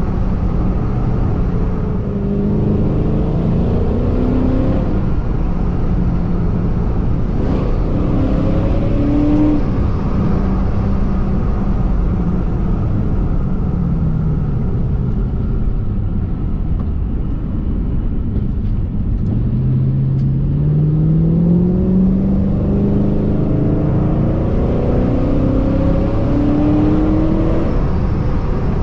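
Supercharged 4.6 V8 of a 2006 Ford Mustang GT pulling under acceleration. The engine pitch climbs and drops back several times, with the longest climb in the second half.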